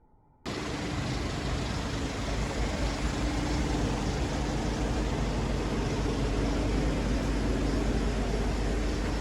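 Steady vehicle running noise with a low rumble and a faint hum, cutting in suddenly about half a second in.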